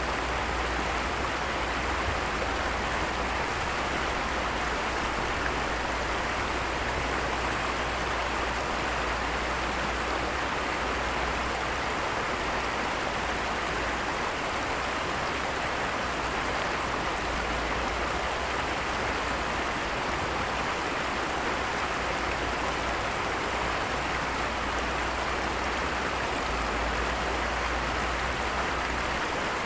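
Heavy rain falling steadily, an even hiss of downpour with no breaks.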